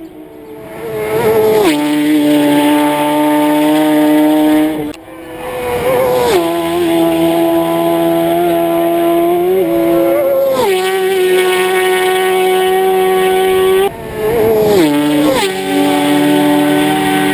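Racing motorcycles passing at full speed on a road course, about four pass-bys; each engine note holds steady and then drops sharply in pitch as the bike goes by.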